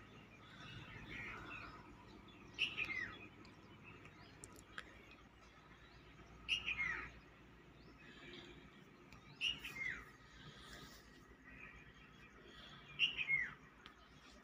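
A bird calling: four short chirping calls, each falling in pitch, spaced about three to four seconds apart.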